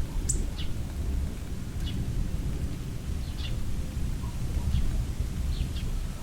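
Thunder rumbling low and continuously with rain falling, and a few short, high chirps scattered through it.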